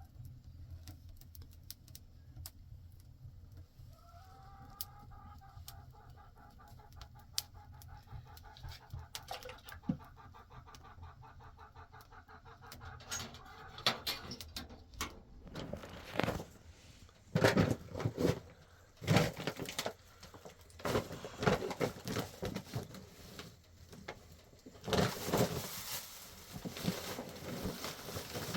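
Chickens clucking and calling, with one drawn-out wavering call a few seconds in. From about halfway, a run of loud knocks and rustles takes over.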